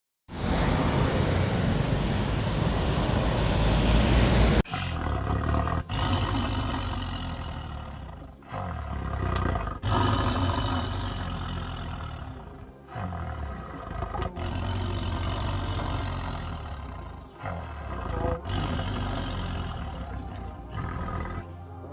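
Heavy trucks driving past on a road, their engines running with a deep rumble that swells and fades. The sound cuts abruptly from one passing truck to the next every few seconds, the first and loudest lasting about four and a half seconds.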